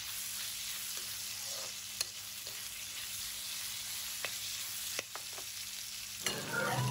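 Pork belly sizzling in hot oil in a wok as it is stir-fried, a steady hiss with a few sharp clicks and scrapes of the spatula against the pan.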